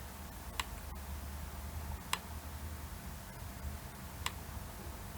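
Up/down push button on an LCD touch-screen tester clicked three times, a second and a half to two seconds apart, stepping through the test pictures.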